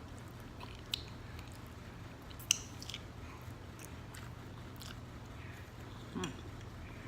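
Close-up mouth sounds of a person eating stewed chicken: wet chewing and smacking with scattered sharp clicks, the sharpest about a second in and two and a half seconds in, and a short low vocal sound near the end.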